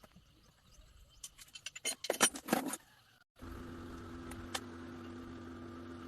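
Metallic jangling and clicking for about a second and a half, like keys or small metal parts being handled. Then, after a sudden cut, a steady low hum.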